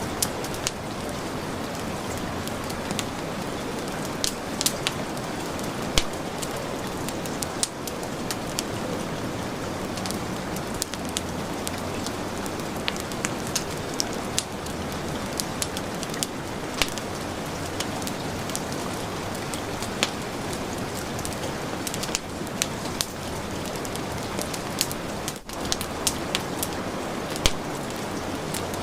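Heavy rain falling steadily, mixed with the irregular crackles and sharp pops of a wood fire burning in a fireplace.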